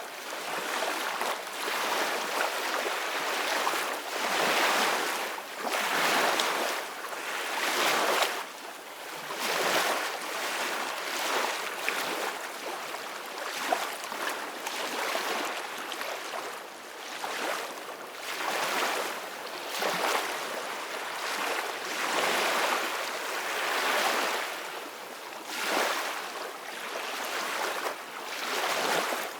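Ocean waves washing onto a beach, the surf swelling and falling back every two seconds or so.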